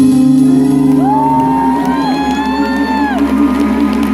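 The final held note of a live vocal-harmony pop song with band accompaniment, a low note wavering steadily underneath. A high voice slides up about a second in, holds and falls away, with whoops from the audience.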